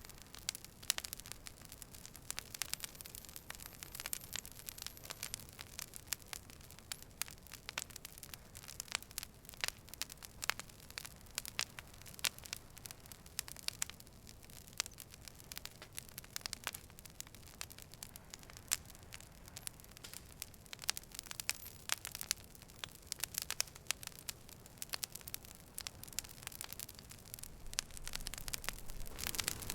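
Campfire burning: wood crackling with many irregular sharp snaps and pops over a low, steady hiss.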